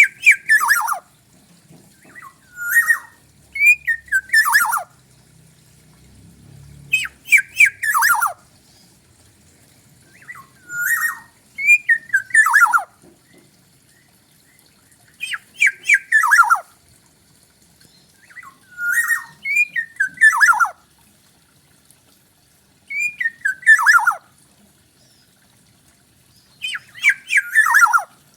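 Black-naped oriole (kepodang) singing: short loud phrases of downward-sliding fluty notes mixed with harsh scratchy notes, repeated every three to four seconds.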